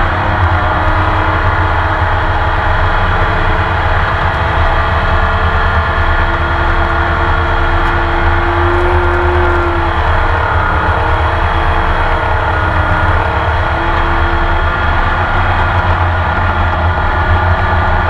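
Onboard sound of a Porsche 911 race car's flat-six engine running under steady load, with slow, slight rises and falls in pitch rather than sharp gear-change sweeps.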